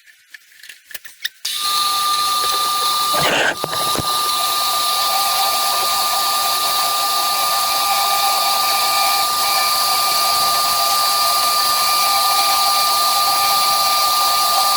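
Metal-cutting bandsaw running at a steady pitch with a fixed whine, after a few light clicks as it is set up and switched on about a second and a half in.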